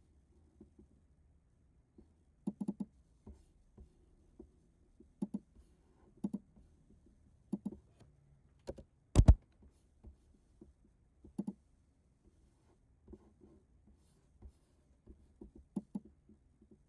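Scattered small clicks and taps, several coming in quick pairs or triples, with one louder knock about nine seconds in.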